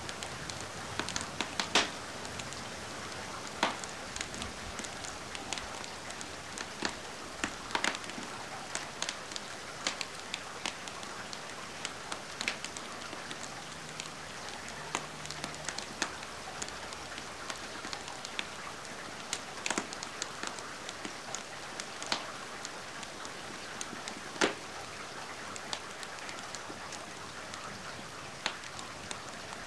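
Steady rain hiss mixed with a wood fire in a fireplace, crackling with irregular sharp pops, a few of them much louder than the rest.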